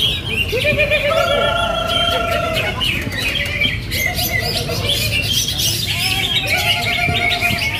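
Many cucak hijau (greater green leafbirds) singing loudly at once, dense overlapping chirps, trills and warbling phrases, as at a songbird contest, over a steady low background hubbub.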